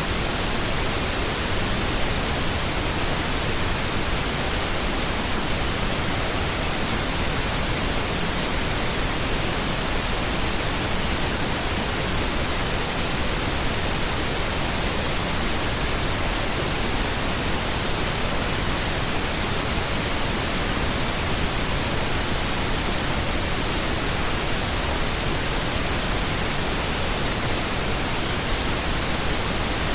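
Continuous pink noise: an even, steady hiss spread across all pitches, with no change in level.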